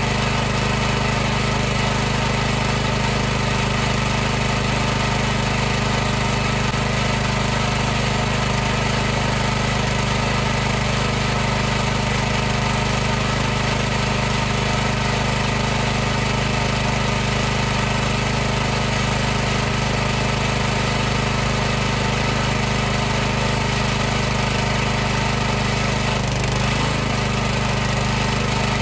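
High-pressure washer running continuously: its motor and pump make a steady, even-pitched drone over a constant hiss. The drone wavers briefly near the end.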